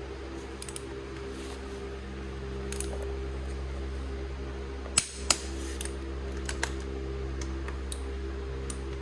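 Scattered sharp clicks and light knocks of tools and metal parts being handled, the two loudest in quick succession about five seconds in, over a steady low hum.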